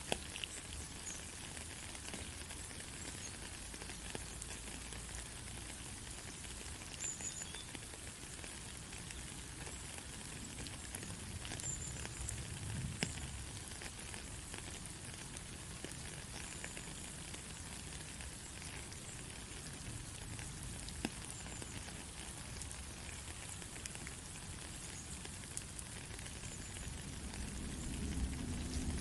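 Steady rain, a dense hiss of falling drops with many fine ticks and patters. A low rumble swells near the end.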